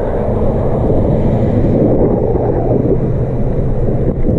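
Wind rushing over an action camera's microphone while riding an e-bike, a steady loud low rumble mixed with the ride's road noise.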